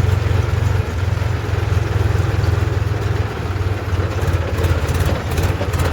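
Tractor diesel engine running steadily with a low, even beat.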